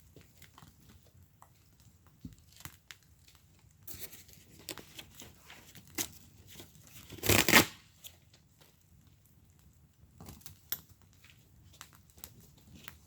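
Wood fire in a fire pit crackling, with scattered sharp pops and one louder, half-second burst of crackling about seven seconds in.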